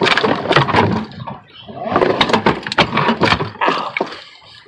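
A hooked fish thrashing against the boat: a rapid run of knocks and slaps in two bursts, the second starting about two seconds in.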